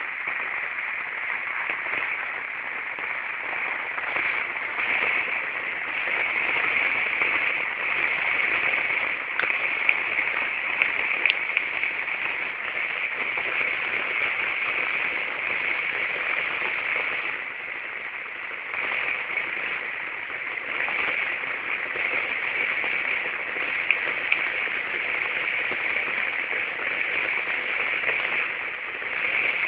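Steady rain falling on a car and the wet street around it: an even hiss with a few sharp ticks of drops.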